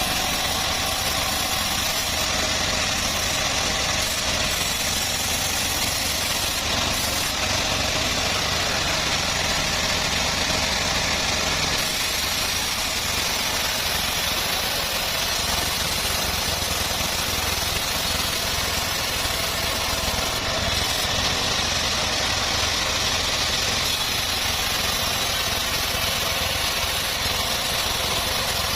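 Homemade bandsaw sawmill running steadily, its engine hum under a constant hiss of saw noise with no breaks.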